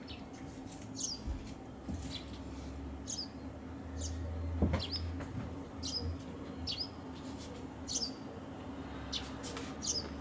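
A small bird chirping, short high chirps about once a second, over a low steady hum.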